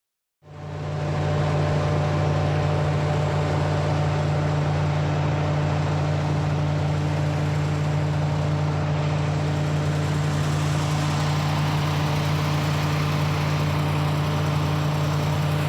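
Semi truck's diesel engine idling steadily, a constant low hum with no change in pitch, starting just after a sudden cut.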